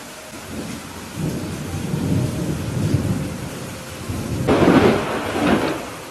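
Thunderstorm with steady rain: low thunder rumbles building from about a second in, then a sharper, louder thunderclap at about four and a half seconds with a second peak just after, dying away near the end.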